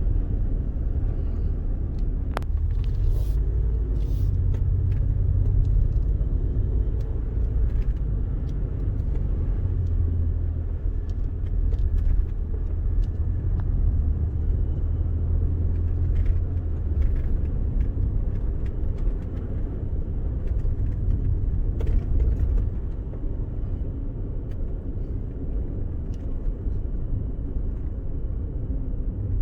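Ford Expedition SUV driving on snow-covered roads: a steady low rumble of engine and tyres, with a few light clicks.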